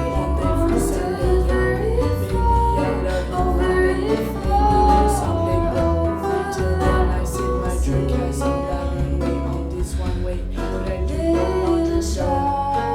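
A woman's voice singing a melody over a plucked archlute accompaniment with deep bass notes.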